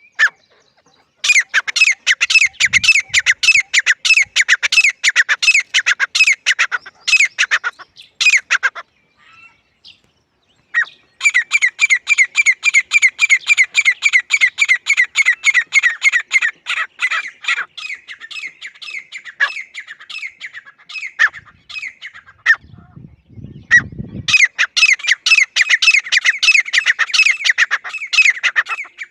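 Grey francolin calling in long runs of fast, harsh, repeated notes, with two short breaks. A brief low rumble comes just before the last run.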